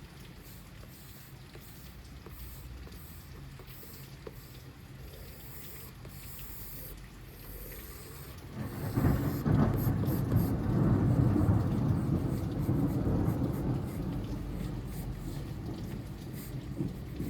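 Steady rain, then a little over halfway through a long roll of thunder comes in suddenly, loudest for a few seconds and slowly dying away.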